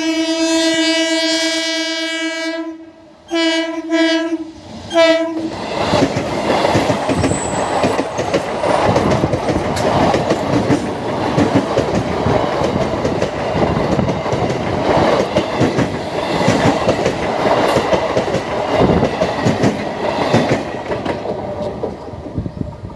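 Electric multiple unit (EMU) local train sounding its horn in one long blast followed by two short toots, then running past with the rumble of its coaches and the clickety-clack of wheels over rail joints, dropping away near the end.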